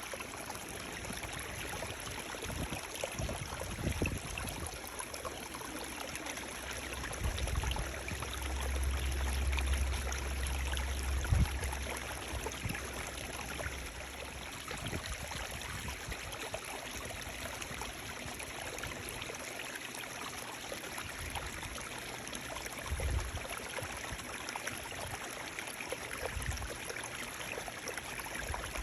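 Running water flowing steadily, an even rushing with a faint trickle. A low rumble rises under it for several seconds in the middle, and a few brief low thumps come and go.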